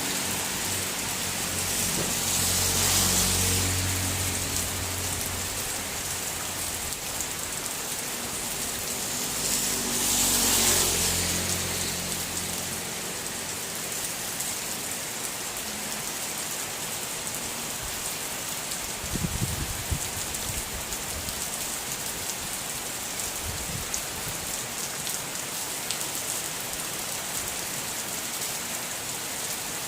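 Heavy rain falling steadily as an even hiss. A vehicle engine's low hum runs through the first dozen seconds, with two louder rushes of hiss at about 3 and 11 seconds. A few short knocks come about two-thirds of the way in.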